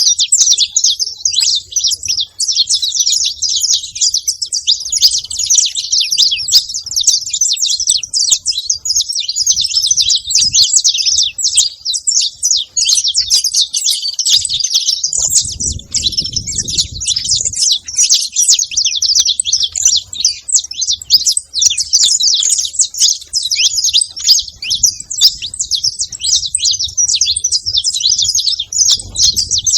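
Saffron finch (canário-da-terra) singing: a fast, unbroken stream of high chirps and trills.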